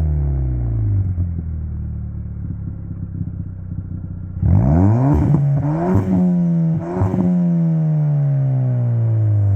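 Ford Fiesta ST's 1.6-litre turbocharged four-cylinder engine through a Rev9 3-inch catback exhaust. The revs fall back to idle and it idles steadily; about four and a half seconds in come three quick throttle blips, each a sharp rise in pitch. The revs then fall slowly back toward idle after the last blip.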